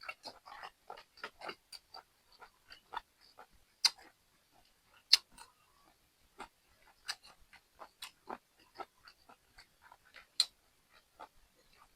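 A person chewing and eating, with many small wet mouth clicks and smacks at an irregular pace and a few sharper, louder clicks about four, five and ten seconds in.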